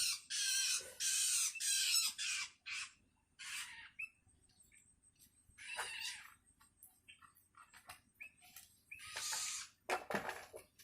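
Long-tailed shrike (cendet) chicks giving harsh begging calls: a quick run of four in the first couple of seconds, then single calls a few seconds apart. These are the calls of hungry fledglings calling for the parent.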